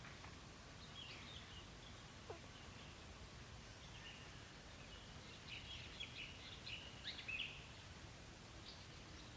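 Faint, high bird chirps over low outdoor background noise: a short cluster about a second in and a busier run of chirps in the second half.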